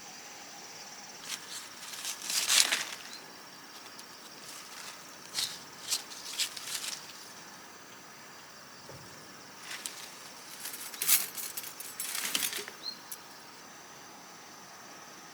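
Three spells of brief rustling and light knocks, the loudest about two and a half seconds in, over a steady high-pitched insect drone.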